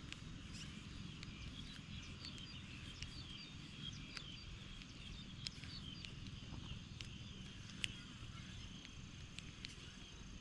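Faint outdoor ambience: a low wind-like rumble with scattered small chirps and twittering, and now and then a sharp little click.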